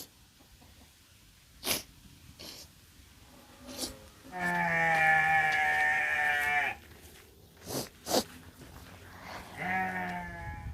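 A farm animal's long drawn-out call lasting over two seconds, then a shorter call near the end, with a few sharp clicks in between.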